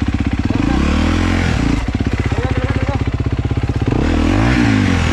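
Dirt bike engine running at a steady throb while a dirt bike is revved hard in two bursts, about a second in and again near the end, as it is pushed up a steep climb.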